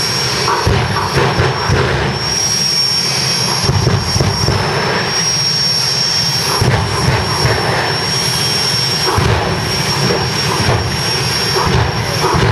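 Jet car's helicopter turbine engine running at full power with its afterburner, a loud steady rush with a high steady whine, broken by irregular louder bangs and surges from the afterburner.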